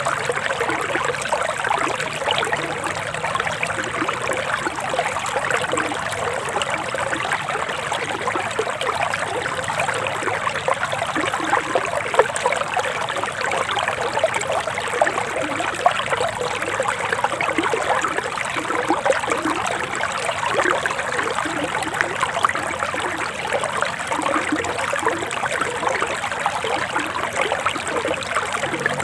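Forest stream flowing and trickling steadily over stones, a constant babble of small splashes and gurgles.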